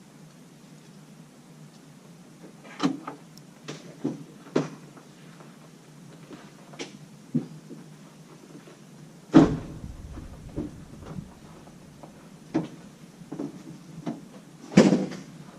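A string of knocks and clunks, with two heavier thumps about nine seconds in and near the end, like a pickup truck's door being opened and shut and someone moving about the cab.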